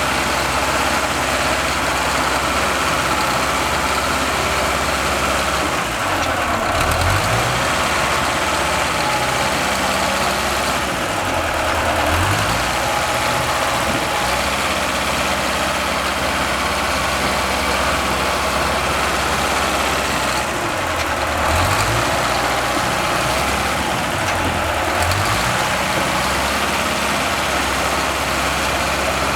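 Bulldozer's diesel engine running steadily, its pitch dipping and then climbing back about four times.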